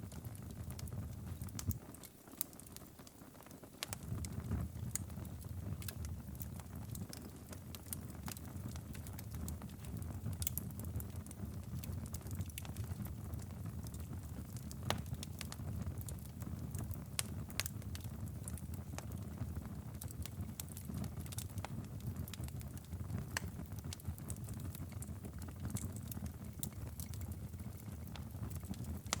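Wood fire in a fireplace crackling: many irregular sharp pops and snaps over a steady low rumble of the flames. The rumble dips briefly a couple of seconds in.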